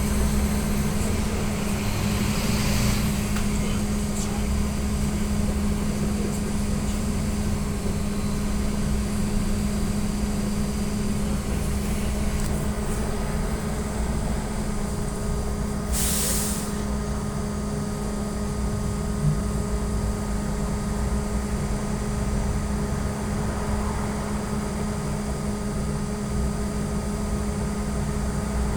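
Inside an AKSM-321 trolleybus under way: the electric drive's steady hum and high whine over road rumble, with the whine sweeping up and back down about 2–3 seconds in. About 16 seconds in there is a short sharp hiss of compressed air from the pneumatic system.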